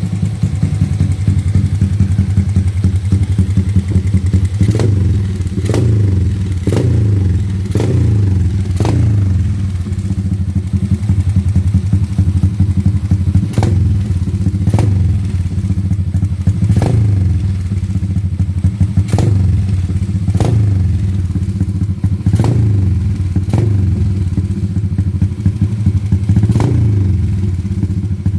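Open-pipe drag motorcycle engine idling loudly, blipped about a dozen times from about five seconds in, each short rev starting with a sharp crack from the straight exhaust.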